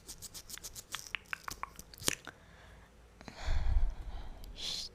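Close-miked wet mouth sounds: quick tongue and lip clicks and smacks for the first couple of seconds. About three seconds in there is a louder breathy noise with a low rumble, then a short hiss near the end.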